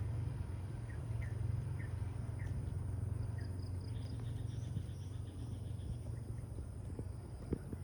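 Outdoor field ambience: a small bird chirping repeatedly over a steady low rumble, with a faint steady insect hum and a few soft knocks near the end.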